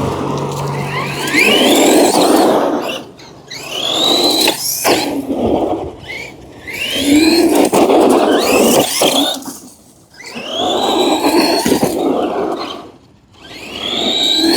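Redcat Volcano EPX RC truck's stock brushed 540 motor on a 3S LiPo whining up in repeated full-throttle bursts, about five of them, each a rising whine lasting two to three seconds with a short lull between.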